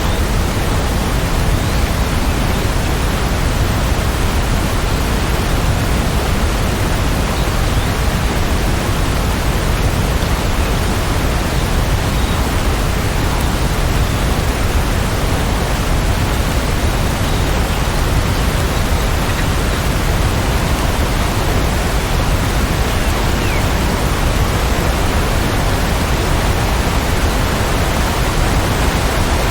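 Rain falling steadily, a dense, even hiss with no let-up, strongest in the low end.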